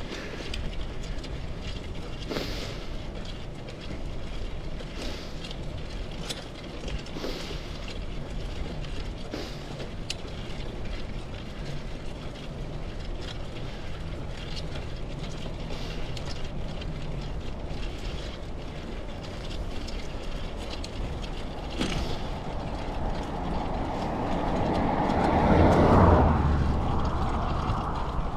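Bicycle riding on a road: a steady rumble of tyres and wind, with scattered knocks from bumps. Near the end, a passing vehicle swells to the loudest point and then fades away.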